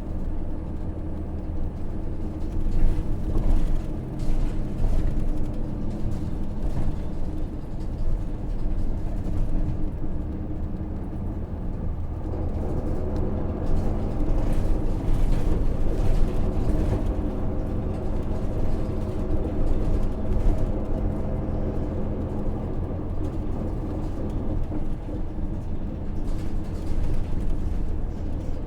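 Interior running sound of a 2005 Hino KV234 city bus under way: its 6HK1 six-cylinder diesel engine running, with road noise. The engine note shifts in pitch about halfway through.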